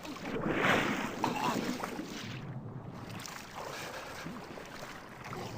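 Wind and water noise around a small boat, with a louder rush about half a second to a second and a half in.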